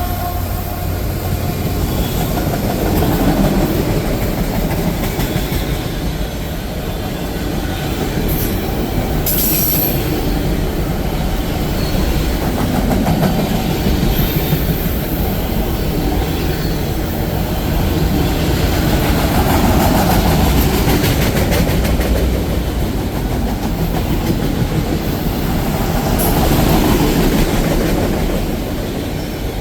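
Train rolling past: a steady, loud rumble of railcars on the rails, with brief high-pitched sounds about nine seconds in and again near the end.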